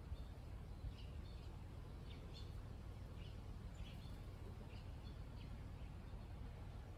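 Faint outdoor background: birds chirping briefly and repeatedly, short high chirps every half second or so, over a steady low rumble.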